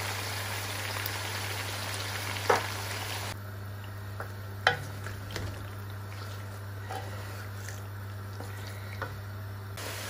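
Chicken and crushed tomatoes sizzling in hot oil in a metal karahi, stirred with a wooden spatula that knocks against the pot a few times, the loudest about two and a half and four and a half seconds in.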